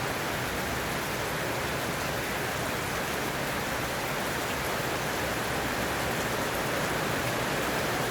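Heavy rain pouring steadily, growing a little louder near the end.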